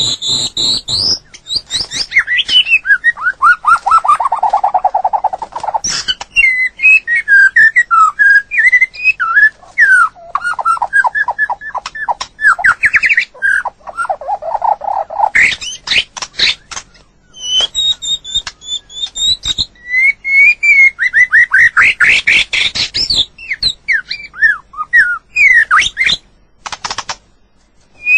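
White-rumped shama singing a loud, varied song. Phrase follows phrase with short pauses: gliding whistles, quick trills of repeated notes, low mellow whistles and bursts of sharp clicking notes.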